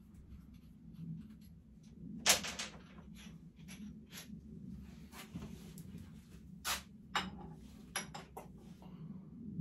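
Scattered knocks and clicks of small parts and tools being handled during workshop work, the loudest about two seconds in, over a low steady hum.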